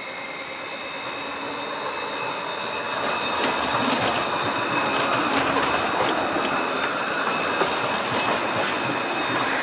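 A tram running on its rails: a steady high whine over wheel-on-rail rumble. The rumble grows louder about three seconds in, with scattered clicks and rattles.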